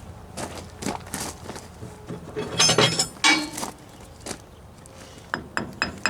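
Metal-on-metal clinks and knocks from tools working hydraulic cylinder parts, with a clattering cluster in the middle. Near the end a run of quick, ringing taps begins, about four a second.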